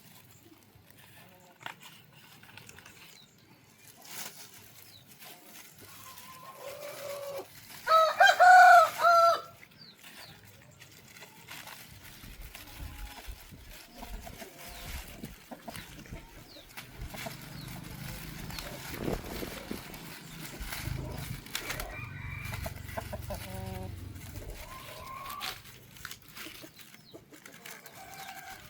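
A rooster crowing once, a loud call in about three parts, with fainter clucking later on.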